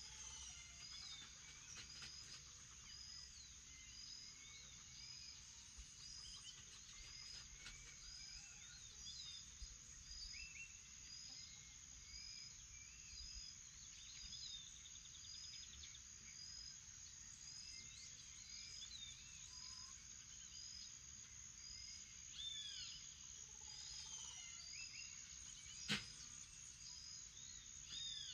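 Faint dawn chorus: a steady high insect drone under a short high note repeating about once a second, with assorted bird chirps and calls scattered throughout. A single sharp click comes near the end.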